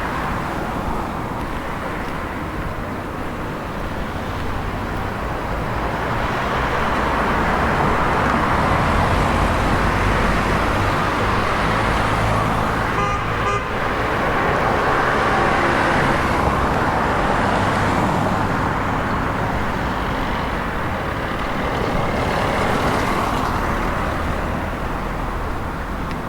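Road traffic passing, the noise swelling for most of the stretch and easing near the end, with a brief toot about halfway through.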